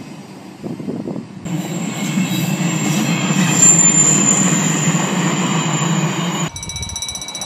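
Roslagsbanan electric commuter train running past a level crossing, with a steady rumble of wheels on rail and a thin, high, steady wheel squeal. The sound changes abruptly twice as the footage cuts between crossings.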